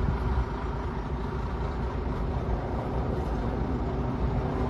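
Heavy earth-moving equipment's diesel engines running, a steady low rumble.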